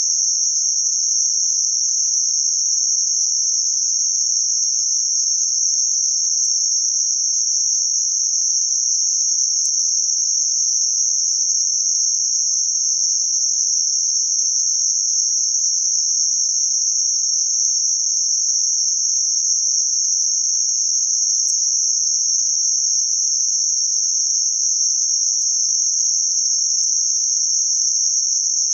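Synthetic narrow band of noise centred around 6051 Hz: a steady, high-pitched hiss that does not change.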